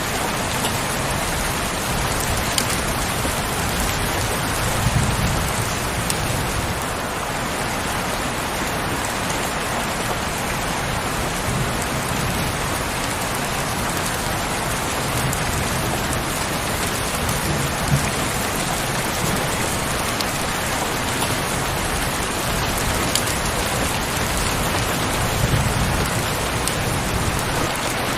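Heavy rain falling steadily, with a few faint drop ticks. Low rumbles swell and fade every several seconds, about four times.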